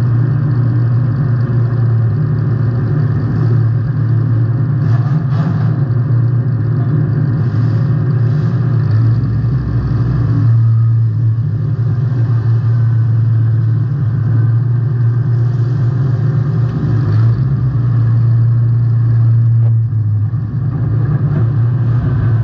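Demolition derby car's engine running loud and steady, its pitch shifting slightly as the throttle changes, with a few faint knocks.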